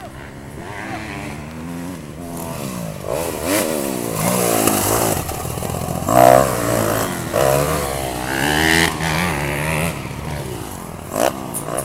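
Several motocross bikes revving and accelerating, their engines rising and falling in pitch over one another, getting louder through the middle as they pass and easing off near the end.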